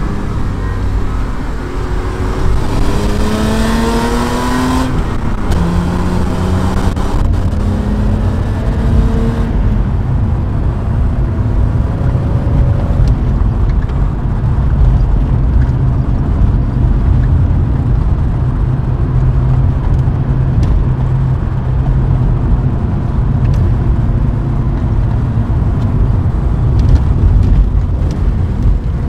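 BMW E30 320i's M20 2.0-litre straight-six engine and exhaust pulling hard. The revs rise for a few seconds, drop at a gear change about five seconds in, and rise again. Then it settles into a steady low drone.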